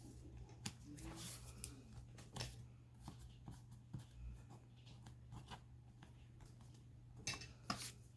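Faint rustling and light taps of paper and card being handled, with a few sharper ones near the end, over a steady low hum.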